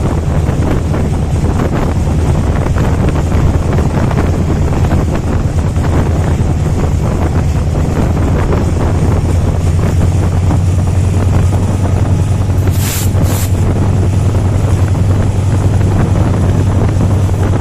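Diesel-electric locomotive's engine running with a deep steady hum that grows stronger in the second half, over rushing wind on the microphone. Two short sharp clicks sound close together about three quarters of the way in.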